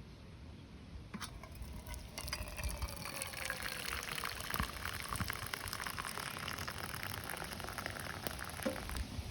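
Liquid sound of the campfire coffee: a steady watery hiss that builds from about two seconds in and stops near the end, with a faint tone falling in pitch over the first few seconds.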